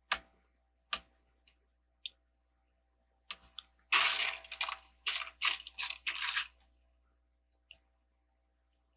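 Small plastic Lego bricks clicking as they are handled, a few single clicks, then about four seconds in a two-second rattle of pieces being sifted through.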